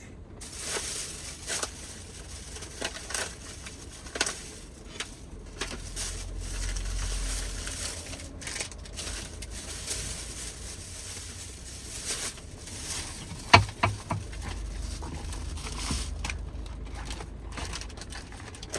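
Rain pattering steadily on the roof of a Toyota HiAce van, heard from inside, with scattered close crunching and crackling and a sharp knock about two-thirds of the way through.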